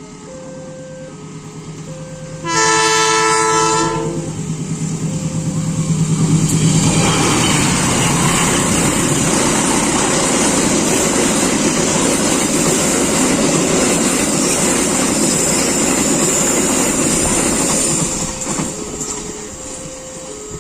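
Passenger train with a diesel locomotive passing. A level-crossing alarm rings in a repeating two-tone pattern throughout. The locomotive's engine rises, and a few seconds in it sounds a loud horn chord for about a second and a half. The train then goes by with loud wheel-and-rail noise for about ten seconds, fading near the end and leaving the crossing alarm.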